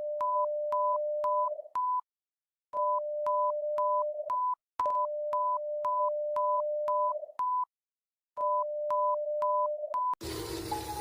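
Electronic emergency-alert tone: a steady low tone with higher beeps about twice a second over it, sounding in runs of about two seconds with short silent gaps. About ten seconds in it cuts suddenly to a slowly falling siren wail over background noise.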